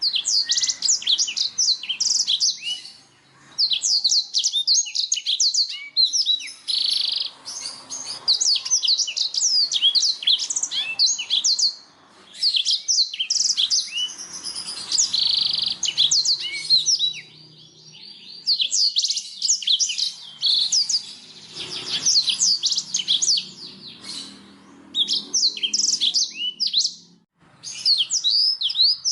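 Blackthroat (black-throated canary) singing: long phrases of rapid, high twittering notes and trills, each lasting several seconds and broken by short pauses.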